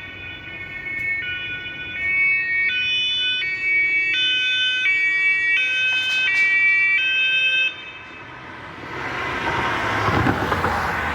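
German police car's two-tone siren (Martinshorn), alternating between a high and a low note about every 0.7 seconds, then cutting off abruptly about three-quarters of the way through. It is followed by a swelling rush of road noise from a passing vehicle.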